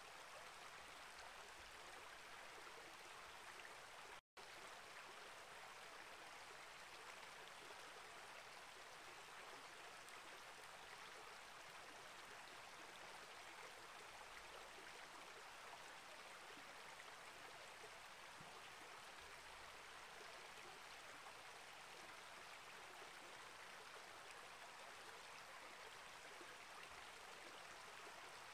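Small rainforest creek flowing over rocks: a faint, steady rush of running water. It cuts out for an instant about four seconds in.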